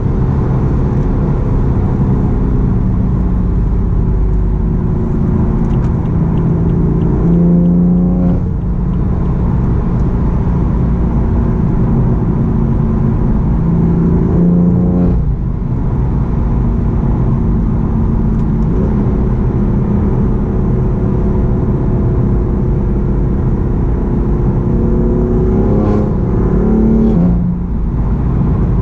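BMW M4's twin-turbo straight-six through a full-system Akrapovic exhaust, pulling through the gears on the move. The engine note climbs steadily and drops sharply at three upshifts: about a third of the way in, about halfway, and near the end.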